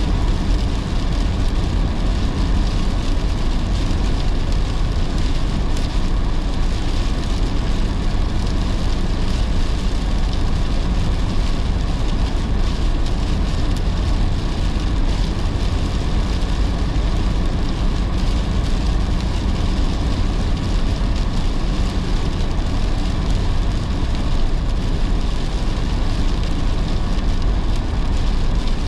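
Steady rain on a moving car, mixed with a low, even rumble of tyres and road noise.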